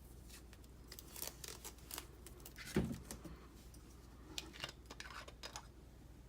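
Close handling of a small fragrance-oil bottle and its plastic packaging: scattered rustles and small clicks, with one louder low thump about halfway through.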